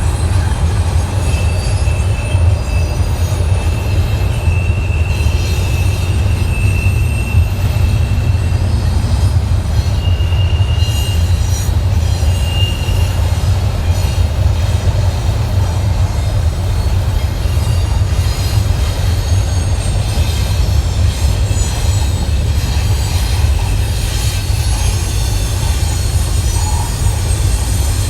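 Freight train rolling past with a heavy, steady low rumble. Thin high wheel squeals come and go over it.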